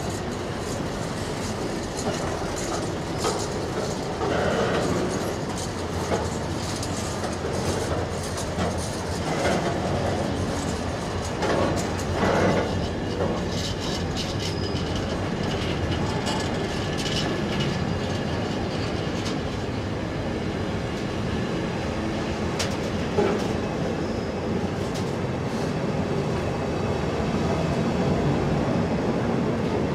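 Container flat wagons of a freight train rolling steadily past close by: a continuous rumble of wheels on rails, with irregular clicking as the wheels cross the track.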